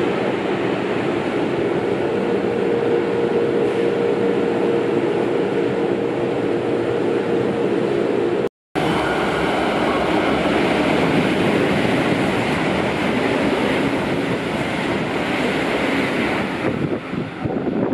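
Train noise at a station: a steady rumble with a hum, broken by a short silent gap. Then a Keikyu limited express passes through the station at speed without stopping. Its rush of wheels and air builds, peaks and thins out near the end.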